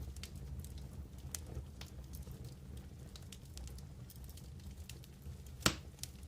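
Wood campfire burning: a low steady rumble of flames with frequent small crackles, and one sharp loud pop near the end.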